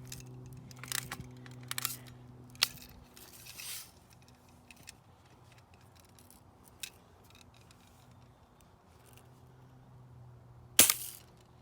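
Spring-air BB rifle fired once near the end, a single sharp crack, the loudest sound here. Before it come a few small clicks of the rifle being handled, over a faint steady low hum.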